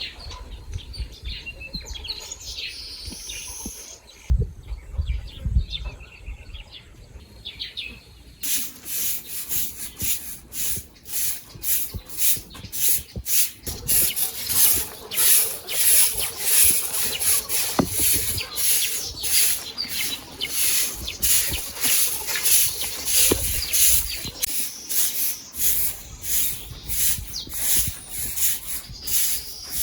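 Birds chirping, then a few low thumps, then steady rhythmic scraping or rubbing strokes, a little over one a second.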